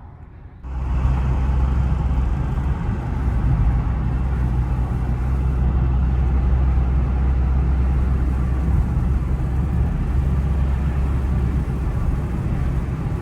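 Infiniti car's engine and road noise heard from inside the cabin. It jumps up suddenly about a second in and then holds as a steady, loud, low drone while the car drives on.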